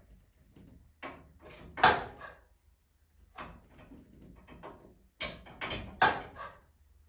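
Irregular knocks and clunks, hard objects striking, about half a dozen spread out with short gaps; the loudest about two seconds in and around six seconds in.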